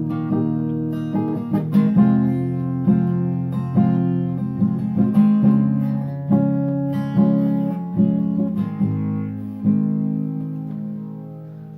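Acoustic guitar playing the closing chords of the song, notes picked and left to ring, getting quieter toward the end.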